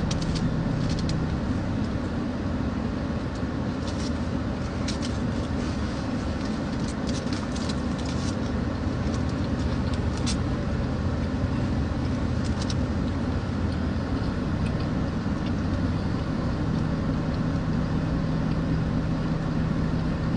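Steady low hum of an idling car engine, with a few faint scattered clicks.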